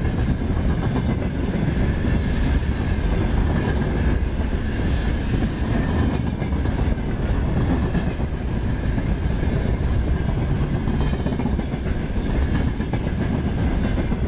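Freight train rolling past at speed: a steady, loud rumble of its wagons' wheels on the rails, with a faint steady ringing tone above it.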